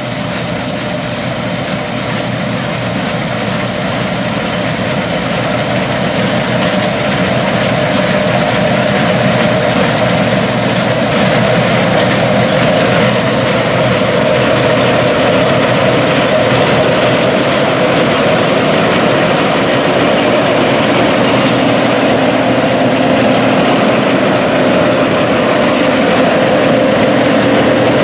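Deutz-Allis Gleaner R60 combine running under load while harvesting wheat: a steady engine and threshing drone with a constant hum. It grows louder over the first ten seconds or so, as it draws nearer, then holds steady.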